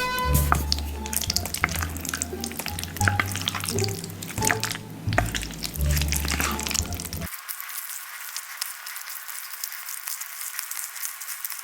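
Dense crackling and clicking of food close to the microphone, over background music whose bass drops out about seven seconds in, leaving only a thin, high crackle.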